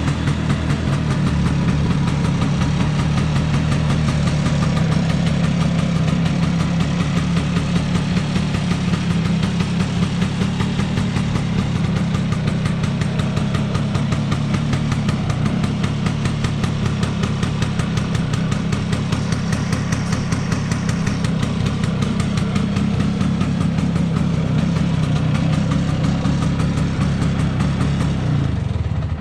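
Vespa P200E's 200 cc single-cylinder two-stroke engine idling steadily with an even, rapid pulse. It is ticking over on its own, the sign that the air leaks (false air) in the rebuilt engine have been sealed. The engine cuts off abruptly at the end.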